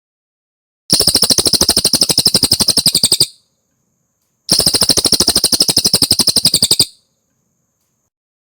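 Velvet-fronted nuthatch (cililin) giving two rapid high-pitched trills, each a fast run of about a dozen sharp notes a second lasting over two seconds, with a short gap between them. This is a clean bird-song training recording with no background.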